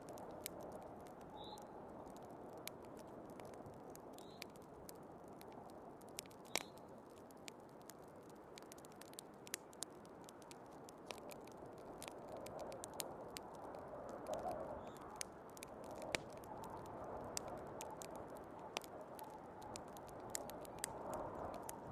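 Wood fire crackling in a fireplace, with many small sharp pops and snaps at irregular intervals, over the steady rushing noise of snowstorm wind, which swells a little in the second half.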